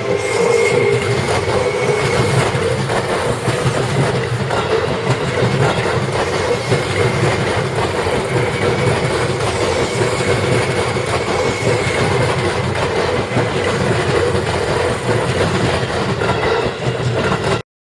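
Seibu Ikebukuro Line electric train running past at a level crossing, wheels clattering over the rail joints, loud and steady, cutting off suddenly near the end.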